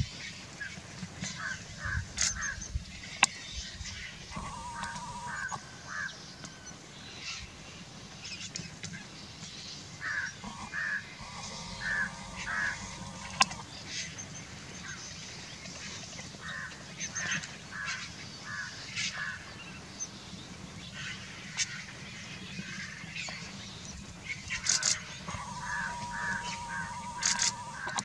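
Birds calling in short notes repeated in runs of four to six, several times over, with a few sharp clicks and a steady low rumble underneath.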